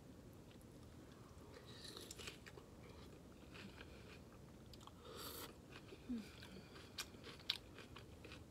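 Faint, close-miked eating sounds of a person biting into and chewing a sauce-dipped stuffed bell pepper: scattered wet crunches, smacks and lip clicks, with the loudest crunch about five seconds in.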